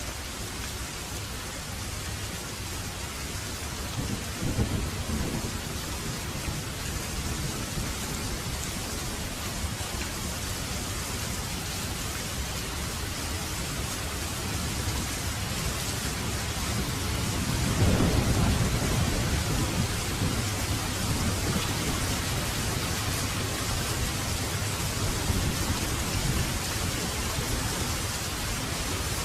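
Heavy rain pouring steadily, with thunder rumbling: a short rumble about four seconds in and a longer, louder roll that builds to a peak about two-thirds of the way through, then slowly fades under the rain.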